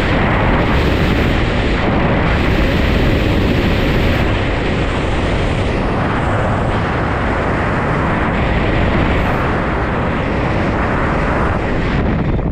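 Loud, steady rush of wind buffeting the camera microphone during a skydive, easing slightly near the end.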